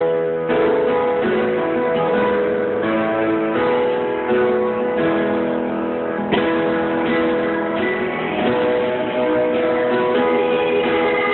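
Guitar music: strummed chords played in a steady rhythm, with no singing.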